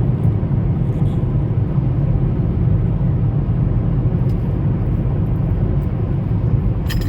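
Freightliner semi truck driving: a steady low rumble of engine and road noise.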